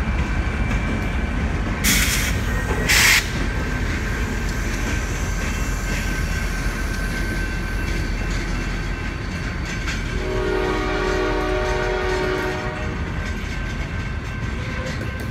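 CSX freight train rolling past with a steady rumble of its cars and wheels. Two short hisses come about two and three seconds in, and a horn chord sounds for about two seconds around ten seconds in.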